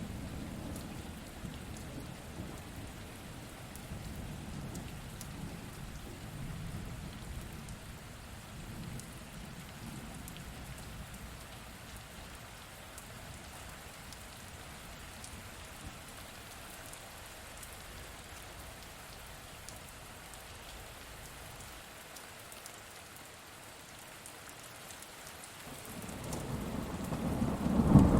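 Steady rain falling, with a low rumble of thunder that fades out over the first several seconds. Near the end a loud roll of thunder builds up quickly.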